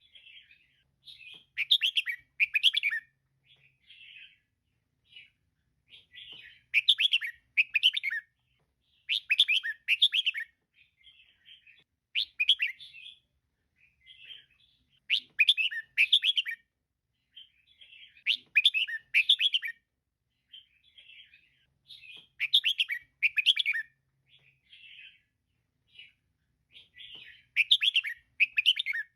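Female red-whiskered bulbul calling: short bursts of quick, chirpy notes every few seconds, with softer chattering notes in between.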